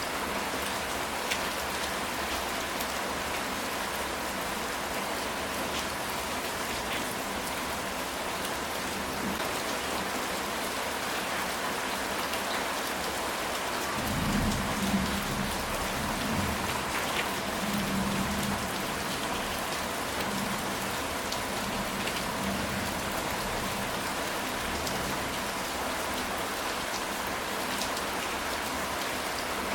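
Steady heavy rain on a ceramic tile roof, with individual drops ticking on the tiles. About halfway through, a low rumble of distant thunder rolls for several seconds.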